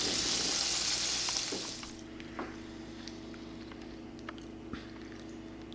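Breaded turkey strips sizzling in hot frying oil, a steady hiss that fades out about two seconds in. After that only a steady low hum with a few small clicks remains.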